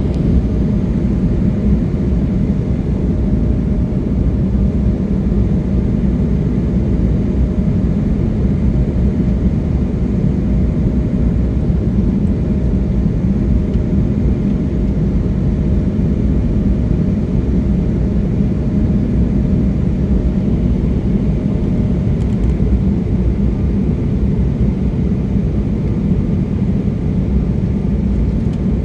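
Steady cabin noise inside an Embraer E175 jet airliner: a constant low drone from its turbofan engines and airflow, with a faint steady hum above it.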